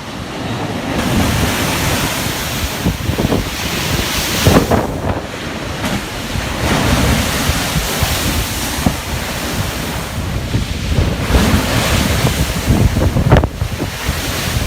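Heavy ocean surf breaking, with wind buffeting the microphone; louder crashes come about four and a half seconds in and again near the end.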